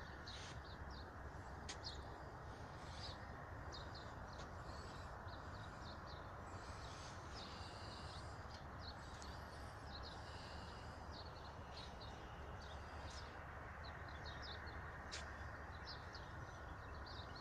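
Small birds chirping, with many short high calls scattered throughout, over a steady background hiss of open-air noise.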